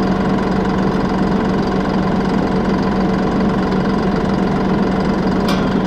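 John Deere 5075E tractor's three-cylinder diesel engine idling steadily, with a single sharp click near the end.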